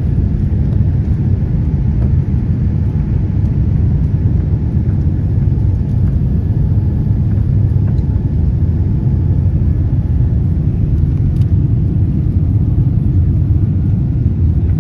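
Aeroplane taking off: a steady, loud, low rumble of engines and rushing air that holds level throughout.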